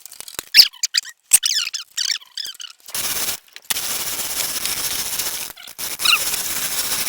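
A run of short, high squeaks, then a steady hiss from about three seconds in that breaks off twice briefly, with a few more squeaks near the end.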